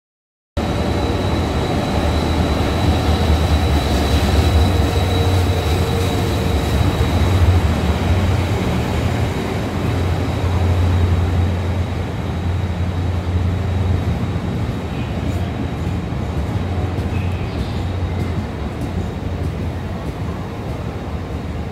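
Diesel-hauled Korail Mugunghwa passenger train on the move: a steady low drone of the locomotive's engine over the rumble of the cars rolling on the rails. The drone eases off in the second half, and a few sharp wheel clicks on the track come through near the end.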